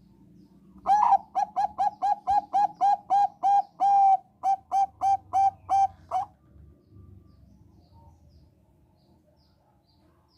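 Zebra dove (Thai 'perkutut bangkok' strain) singing: a quick run of about twenty short, clipped coos, four or five a second, with a brief break partway through.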